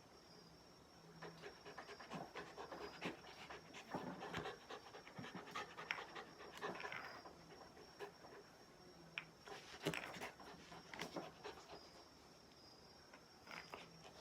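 Shiba Inu panting quietly, with scattered light clicks and scuffs.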